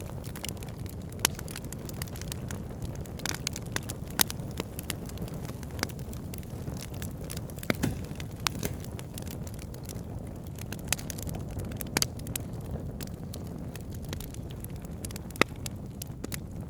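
Campfire burning, with wood crackling in scattered sharp pops, a few much louder than the rest, over a steady low rumble.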